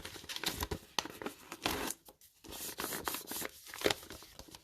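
Sealed foil booster packs and paper envelopes being handled: irregular rustling, crinkling and small scrapes and clicks, with a short pause about two seconds in.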